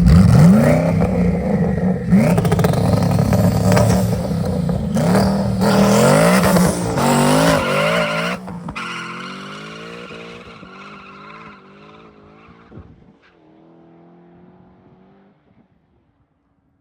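Twin-turbo Coyote V8 of a 2011 Mustang GT under a hard pull. The engine pitch climbs and drops back through several quick upshifts over about eight seconds, then the sound falls away and fades out.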